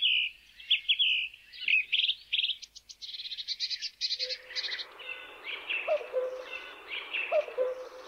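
Small cage birds chirping and twittering in quick trills, with short low calls joining in about halfway through.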